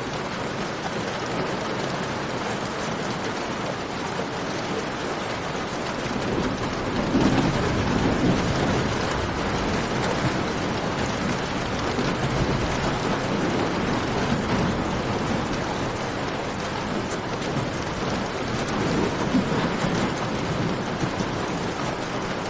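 Steady rain ambience with scattered small sharp clicks, like fire crackles or drips, over it; a low rumble swells up about seven seconds in and again briefly around nineteen seconds.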